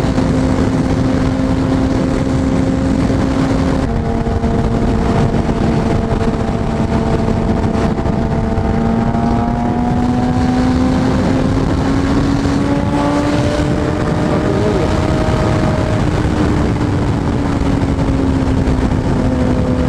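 Kawasaki Ninja ZX-6R's inline-four engine running under way, heard over steady wind rush. About four seconds in its pitch drops suddenly as it shifts up a gear, then climbs slowly as the bike gathers speed and eases off a little near the end.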